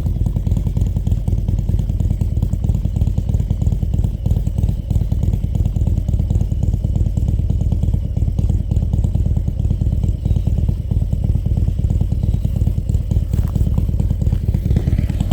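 Harley-Davidson Milwaukee-Eight V-twin with an SS 475 camshaft idling steadily through Mutazu 2.0 megaphone slip-on mufflers, a dense, even pulsing exhaust with no revs.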